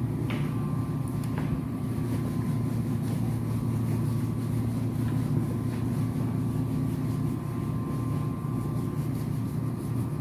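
Dog blower dryer running steadily, drying the freshly bathed dog's fur: a continuous low hum with a faint steady whine above it.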